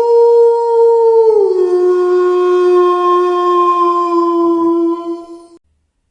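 Wolf howling: one long, steady howl that drops to a lower pitch a little over a second in, holds there, and stops shortly before the end.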